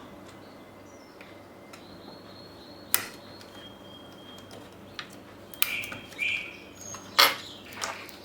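Sharp clicks and knocks of hard plastic laptop parts being handled during disassembly, with short scrapes between them. The loudest clicks come about three seconds in and again about seven seconds in.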